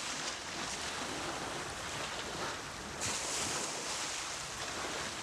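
Waves washing onto a shore, a steady rushing with a swell about three seconds in.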